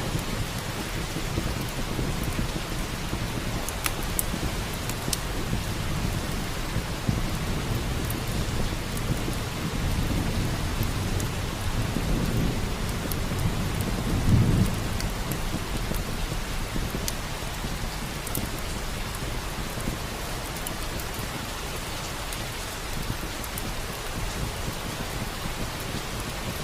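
Steady rain, with a low rumble of thunder that swells and peaks about halfway through before fading. Faint sharp crackles of a fireplace fire tick now and then over the rain.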